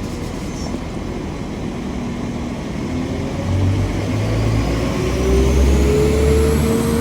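A two-unit class 195 diesel multiple unit pulling away from the platform. Its engine and transmission notes rise slowly in pitch and grow louder from about halfway through, with a faint high whine climbing alongside.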